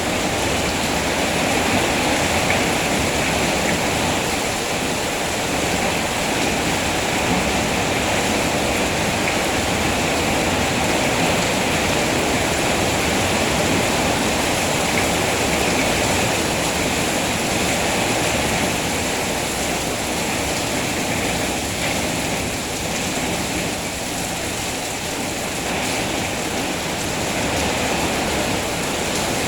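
Steady rain falling, a continuous even hiss with no single drops or other sounds standing out.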